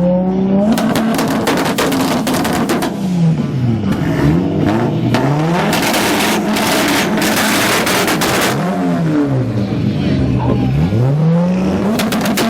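Toyota Supra and Honda S2000 exhausts revving hard in a sound-off, the engines' pitch sweeping up and down over and over, the two often overlapping. Two long spells of sharp crackling run through the revving.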